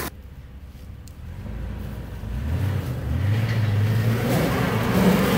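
Jeep Wrangler engine revving up under load as it climbs a steep hill; the engine note rises in pitch and gets steadily louder from about two seconds in.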